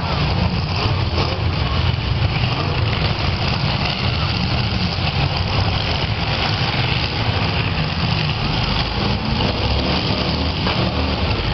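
Engines of several demolition derby cars running together in a steady, loud, low rumble.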